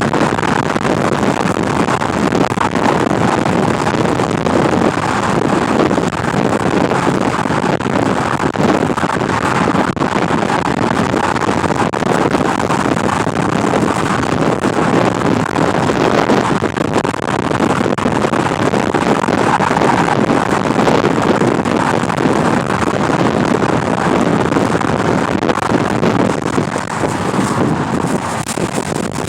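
Loud, steady wind noise on the microphone, a rushing roar from a car, with no let-up.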